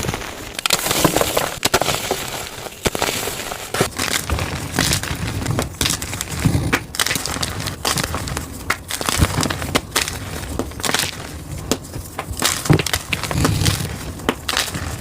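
Gym chalk being crushed: a dense run of irregular, crunchy cracks and crumbles.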